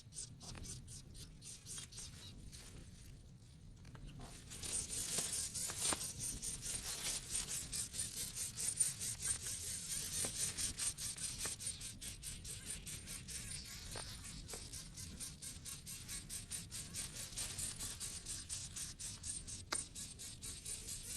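Nestling birds begging in the nest: rapid, thin, high-pitched cheeping repeated several times a second, growing louder about four seconds in and keeping on insistently, the sign of hungry chicks calling for food.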